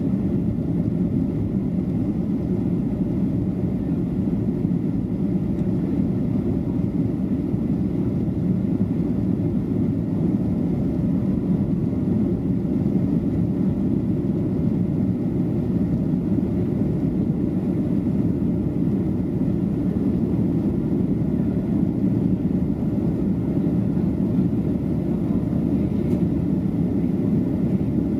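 Steady low drone of a Boeing 737-800's CFM56 jet engines and airflow heard inside the passenger cabin, climbing out after take-off.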